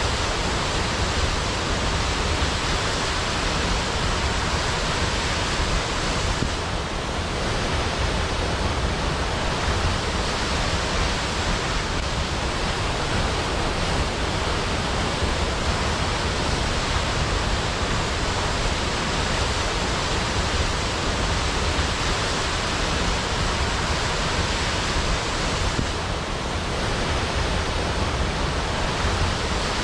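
Waterfall: falling water rushing steadily, an even full-range hiss with no breaks.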